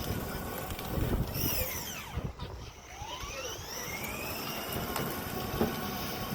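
Electric motor of a child's ride-on toy truck whining as it drives, the whine falling away a little over two seconds in and rising again as it picks up speed, over a low rumble from the wheels.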